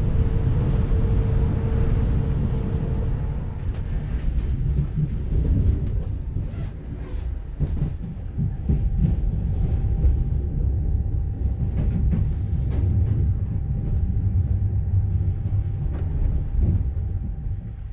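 Passenger train running, heard from inside the carriage: a steady low rumble with scattered short clicks and knocks from the track, and a faint steady whine that comes in about halfway through.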